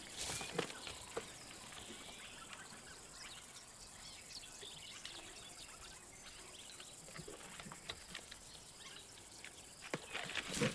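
Faint outdoor bush ambience with scattered short bird chirps and a few soft clicks.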